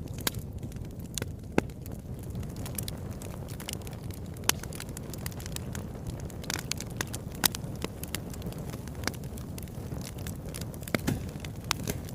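Wood fire in a fireplace crackling, with irregular sharp pops over a steady low rumble of the flames; a few pops stand out louder, scattered through the stretch.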